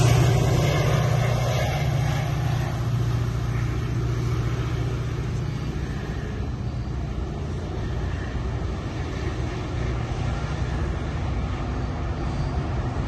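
Metra commuter train running past with a steady low rumble and engine drone. It is loudest at the start and eases off over the first few seconds, then holds steady.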